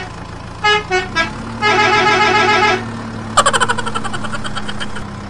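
Truck horn sounds over a steady low engine hum: three short toots about a second in, a held honk, then a rapid warbling series of beeps that fades away.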